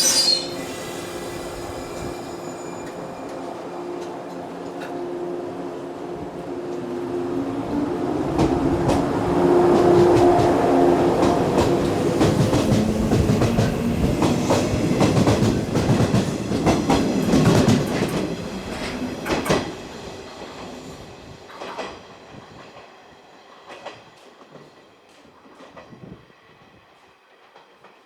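Shinano Railway 115-series electric train running through the station. A steady motor hum builds, wheels click over the rail joints loudest in the middle, and the sound fades away over the last several seconds. A brief sharp high sound comes at the very start.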